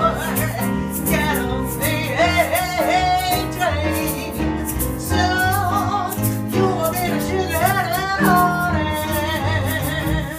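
Small jazz band of voice, tenor saxophone, bass and piano playing a swing tune, a wavering lead melody over a bass line that steps from note to note.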